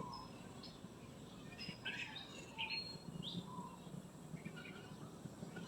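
Small birds chirping faintly, with scattered short calls over a quiet outdoor background and a faint low hum.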